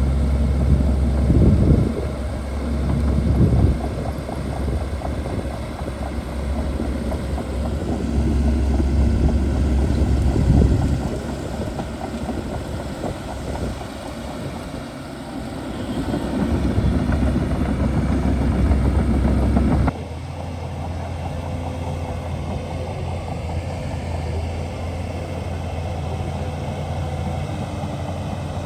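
Shantui DH17C2 bulldozer's diesel engine working under changing load, surging louder several times. About two-thirds of the way in the sound changes abruptly to steadier, quieter running.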